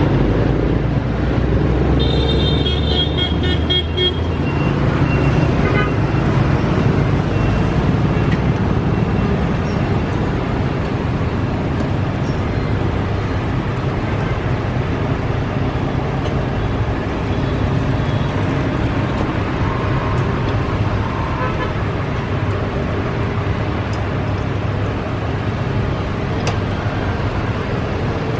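Steady road traffic noise, with a brief horn toot about two seconds in.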